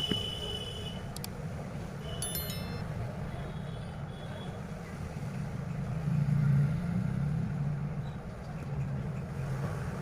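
Steady low rumble like background road traffic, with a brief high tone at the start and a short stepped run of high beeps about two seconds in.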